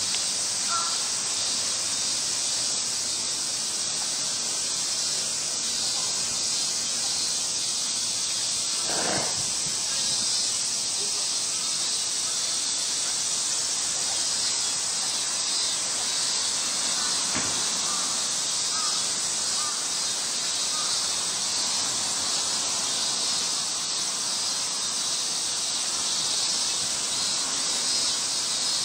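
Steady high-pitched hiss of outdoor ambience throughout, with two brief soft noises, about nine and seventeen seconds in.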